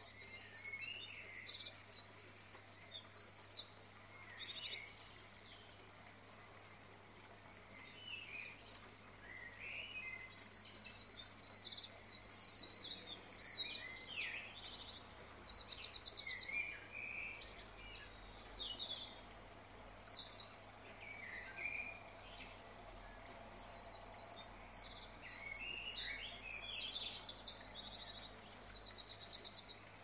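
Small birds singing and chirping: quick high trills and chirps come in bouts, with short lulls between.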